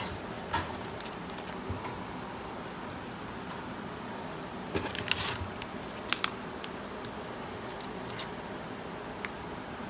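Light handling noises over a steady background hum: a few soft clicks and rustles, a small cluster about halfway through and a sharp double click just after.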